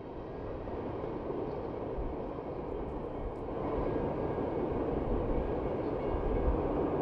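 CN freight train's covered grain hopper cars rolling past on the rails: a steady rumbling clatter of steel wheels on track that grows louder about three and a half seconds in.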